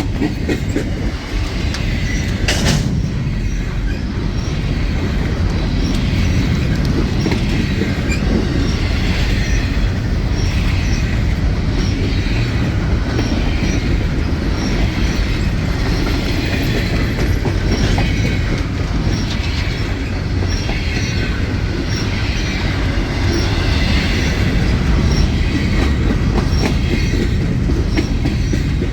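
Freight train cars rolling past, a steady rumble with a rhythmic clickety-clack of wheels over the rail joints.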